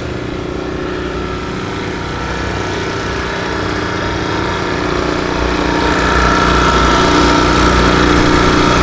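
An engine running steadily with an even hum that grows gradually louder.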